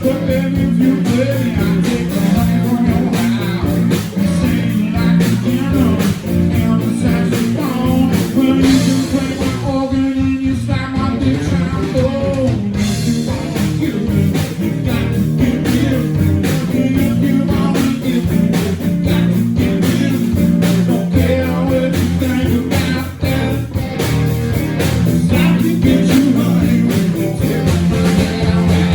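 Live blues-rock band playing a song, with electric guitar to the fore over bass and drums.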